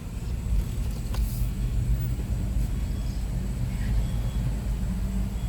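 Car engine running low and steady, heard from inside the cabin as the car creeps forward in a drive-thru line, with a faint click about a second in.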